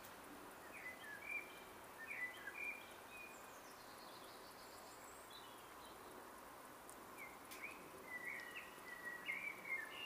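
Small birds chirping: short high chirps in two bouts, one about a second in and another from about seven seconds in, over a faint background hiss.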